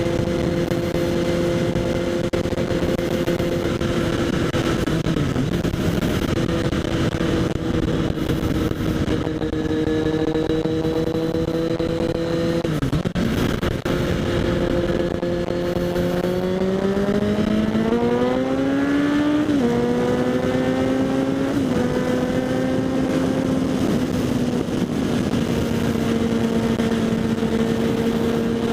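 Kawasaki Z800's inline-four engine through a LeoVince SBK aftermarket exhaust while riding: steady cruising revs, a brief dip about halfway, then the engine revs rising under acceleration, with two sudden drops in pitch as it shifts up, before it settles back to steady cruising.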